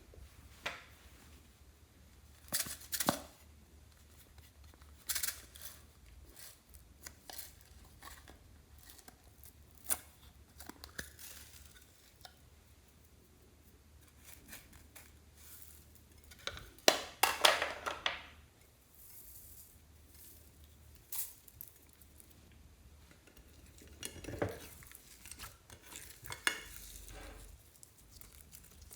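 Scattered clicks, taps and crinkling from small plastic containers, utensils and packaging being handled while mixing slime, with a longer, louder rustle about two-thirds of the way through.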